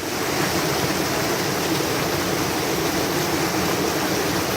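A forest stream flowing, its water rushing steadily and continuously.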